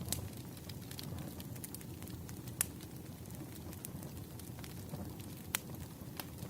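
Burning firewood crackling: a steady low rumble of flames with sharp pops scattered every second or so, the loudest about two and a half seconds in and again near five and a half seconds.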